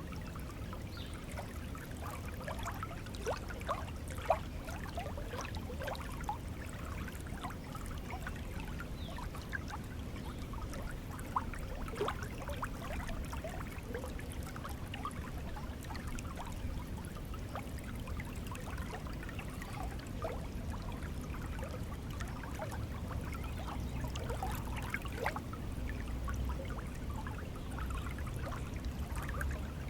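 Shallow stream flowing steadily over stones, with many small bubbling and trickling plinks scattered through the rush of water.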